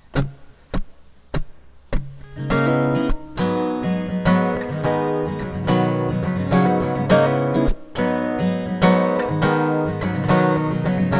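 Four sharp taps about 0.6 s apart, like a count-in, then an acoustic guitar starts playing at about two seconds and keeps a steady rhythmic pattern of strummed chords as the introduction of the song.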